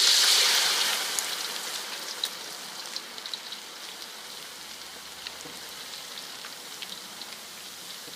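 Bundle of dried noodles deep-frying in hot oil in a wok: a loud burst of sizzling that dies down over the first few seconds into a steady fizz with scattered pops.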